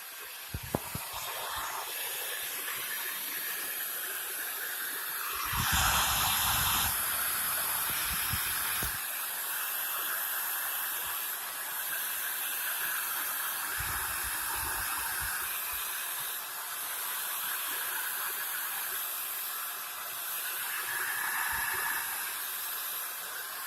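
Water and air being drawn out of a pipe through a hose by mouth siphoning: a steady hissing, louder for a moment about six seconds in.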